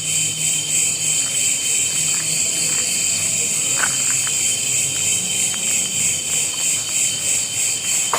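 Steady, continuous high-pitched trilling of crickets and other insects in a forest chorus.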